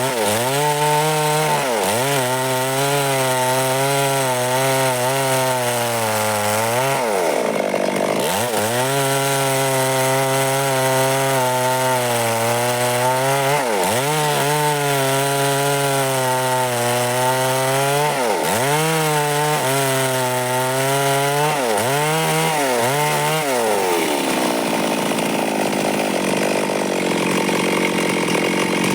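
Stihl MS 382 two-stroke chainsaw cutting wood under full throttle, its engine pitch dropping and recovering again and again as the chain bites into the cut. Toward the end the steady engine note gives way to an even rushing noise.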